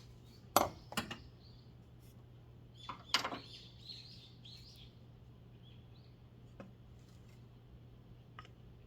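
A few sharp knocks or clinks: two about half a second apart just under a second in, and another pair about three seconds in, each with a short ring. A steady low hum runs beneath them.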